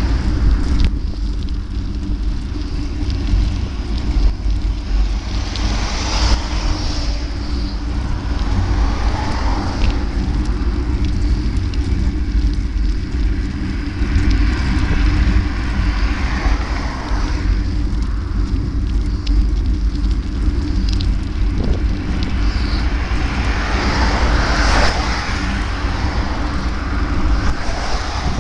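Wind buffeting the microphone with steady road noise while riding, as traffic swells up and fades several times when vehicles pass.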